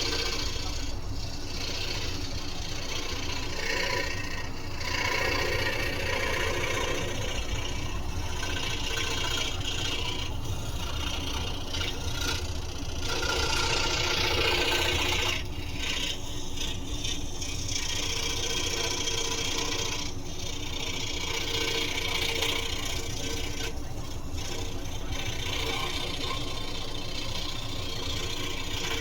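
Scroll saw running and cutting wood: a steady motor hum and blade chatter, with a rasping cutting noise that swells and fades as the piece is fed through the blade.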